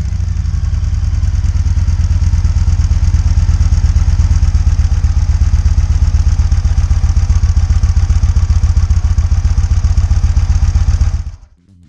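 2009 Yamaha Raider's 1900cc V-twin idling steadily through its factory exhaust pipes with the baffles still in, a fast, even, low pulsing. It cuts off suddenly near the end.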